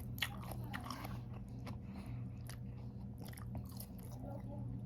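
Close-up chewing of food, with irregular crisp crunching clicks from the mouth, over a steady low hum.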